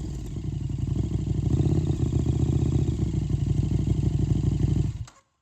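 2021 KTM 1290 Super Duke R's V-twin idling through a Racefit Growler X aftermarket exhaust, with a lumpy, pulsing beat. It falls silent abruptly about five seconds in.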